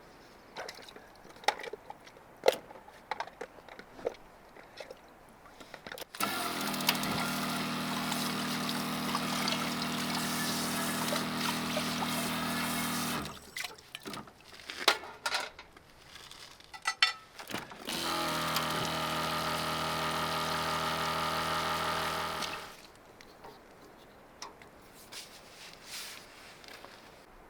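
Water running from a portable outdoor water heater with a steady hum, in two stretches of several seconds each, with scattered clicks and knocks between them.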